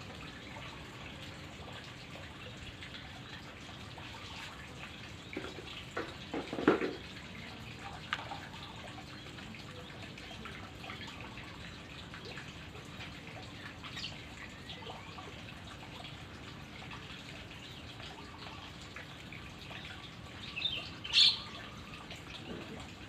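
White-rumped shama in its enclosure: a faint steady hiss with a cluster of knocks about six seconds in, then one short, sharp call near the end.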